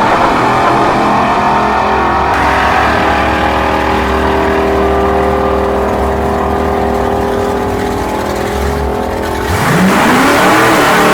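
Turbocharged 302 V8 of a 1988 Ford Mustang GT running loud, holding a steady note for several seconds, then revving sharply upward near the end.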